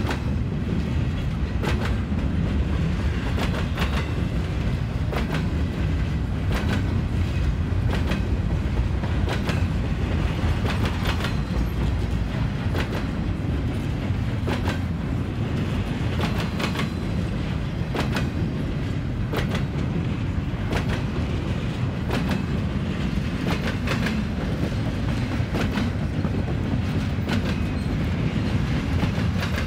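Union Pacific double-stack intermodal train's container well cars rolling past, a steady low rumble of wheels on rail. Sharp clacks come every second or so as the wheels pass over the diamond crossing and rail joints.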